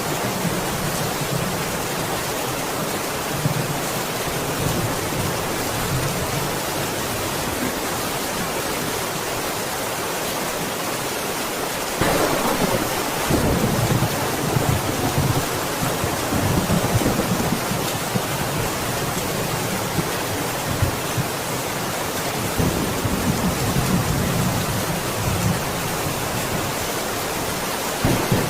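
Steady rain, with low rolls of thunder swelling up about halfway through and again later.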